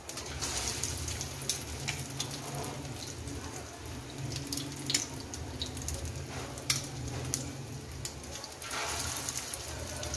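Egg-coated potato-and-beef kebabs sizzling as they shallow-fry in hot ghee in a frying pan, with scattered sharp crackles of spatter over a low steady hum. The sizzle swells louder near the end as another kebab goes into the oil.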